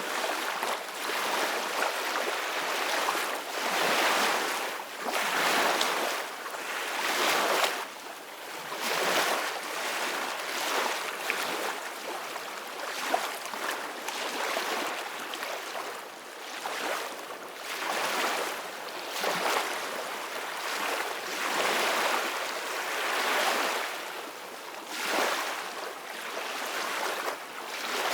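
Ocean waves breaking and washing on a beach, the hiss of surf swelling and easing again every second or two.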